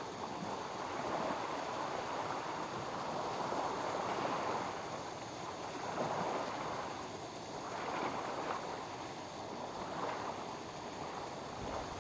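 Small lake waves lapping at the shore, a watery wash that swells and fades every second or two.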